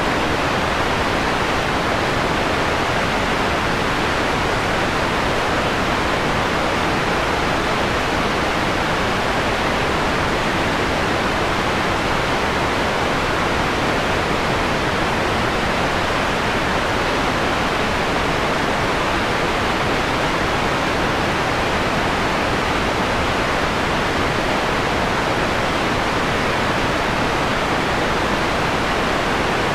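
Steady, unbroken white noise, filtered to a mellower tone: an even hiss strongest in the middle range, with the highest frequencies rolled off.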